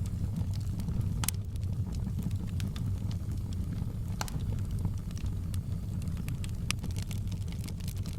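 Wood fire burning in a fireplace: a steady low rumble with scattered sharp crackles and pops, the loudest about a second in, about four seconds in, and near seven seconds.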